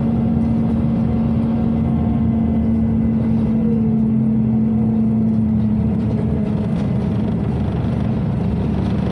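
Inside a Scania OmniCity city bus standing at the terminus: the ventilation fans give a steady hum over the low rumble of the idling diesel engine. The hum eases slightly about six seconds in.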